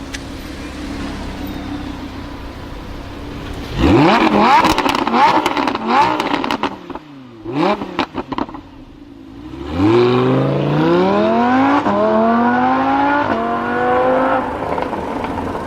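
Lamborghini Huracán LP610-4's V10 engine idling, then revving hard about four seconds in, with sharp exhaust crackles and pops as the revs drop and pick up again. From about ten seconds in it accelerates hard, pitch climbing through several upshifts.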